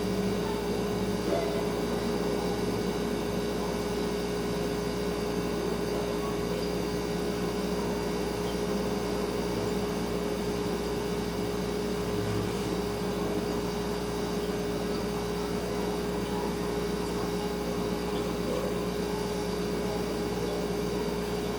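Refrigerator humming steadily, a constant tone over faint room hiss.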